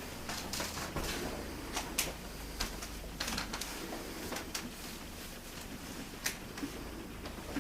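Light footsteps and camera handling indoors: irregular short clicks and knocks, about one a second, over a low steady hum.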